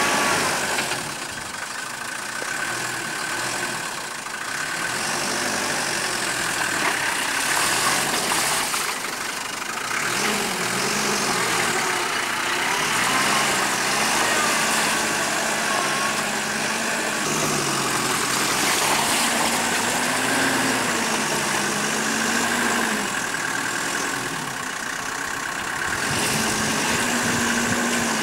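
Bobtailed Range Rover Classic's V8 engine pulling at low revs while the truck crawls through a deep muddy rut. From about a third of the way in, the revs rise and fall several times.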